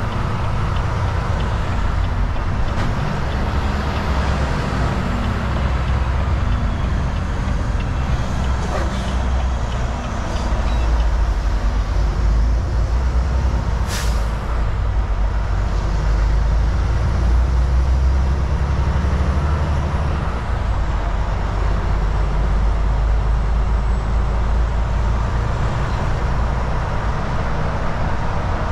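Volvo VNL 760 semi truck driving on the highway: steady diesel engine drone with road and tyre noise, and one brief, sharp air hiss about halfway through.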